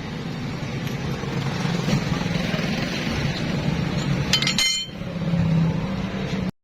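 An engine running steadily, with a single ringing metal clink about four and a half seconds in, like a steel tool striking metal. The sound cuts off abruptly near the end.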